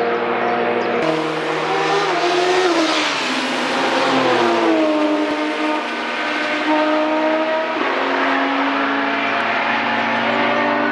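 Engines of vehicles going past at speed one after another, their notes overlapping. About three to five seconds in, one engine note sweeps down in pitch as it passes, and another vehicle's engine follows at a steady pitch.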